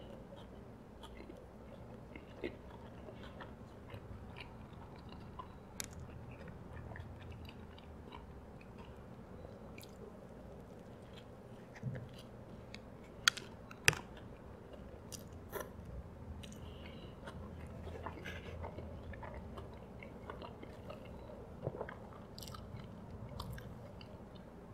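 A person biting into and chewing a Big Mac with tartar sauce, close to the microphone: soft, wet mouth sounds with scattered small clicks, and two sharper clicks about halfway through.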